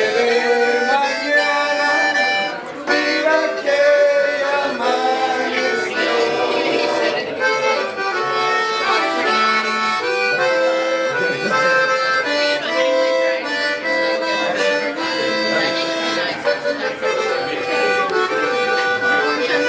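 Accordion music playing, a melody of held notes over chords that change every half second or so.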